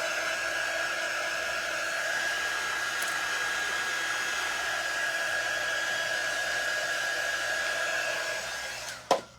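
Handheld electric hot-air dryer blowing steadily to dry fresh paint, a constant whoosh with a high whine in it. It switches off and winds down near the end, followed by a single knock.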